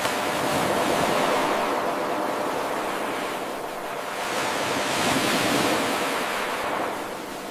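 Ocean waves washing in, in two swells that rise and fall away, on a seamless 8-second loop; the level jumps suddenly at the start where the loop begins again.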